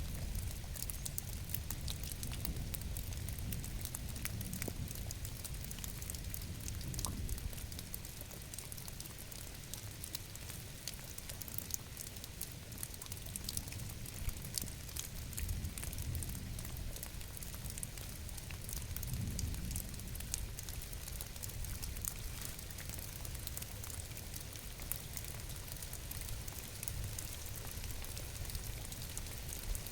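Steady rain falling, with many small drop ticks over a low rumble.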